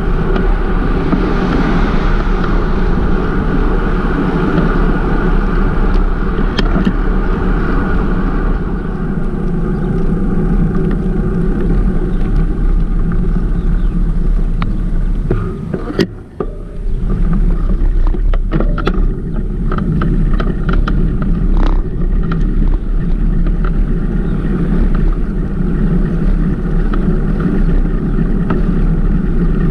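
Steady wind and road rush on a microphone riding along on a moving bicycle, dropping away briefly about halfway through, with scattered light clicks after the lull.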